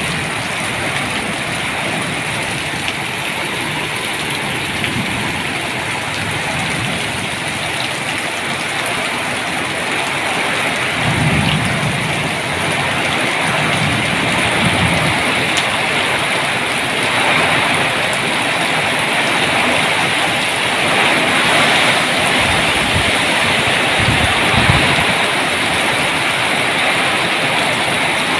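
Heavy rain falling steadily, its hiss growing slightly louder. Low rumbles swell up about a third of the way in and again near the end.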